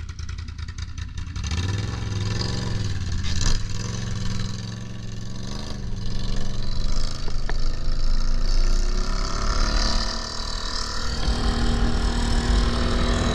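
ATV engine running and pulling off, rising in pitch about a second and a half in, then revving up and down as the machine rides on.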